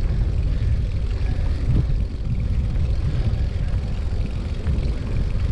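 Steady low rumble of wind buffeting the microphone, mixed with tyre noise from a Brompton folding bicycle riding along a paved cycle path.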